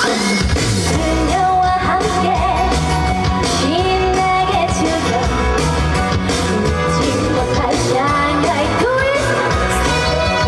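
Upbeat trot song performed live: a woman singing a gliding melody over loud band accompaniment with a steady twist-style beat.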